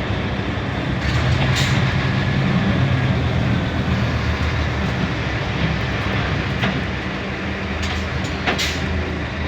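Scania K320UB hybrid bus running with a steady low engine drone, joined by a few sharp clicks or rattles.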